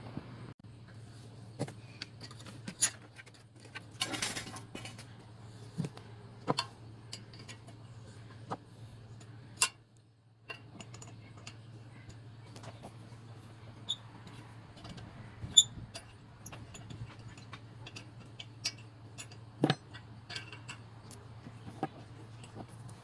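Scattered metallic clinks and knocks of hand tools and small engine parts being handled, over a steady low hum.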